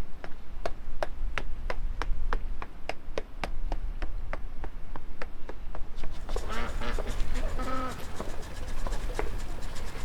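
Regular sharp clicks, about two or three a second, for the first six seconds, then a farm animal calling in a few wavering cries.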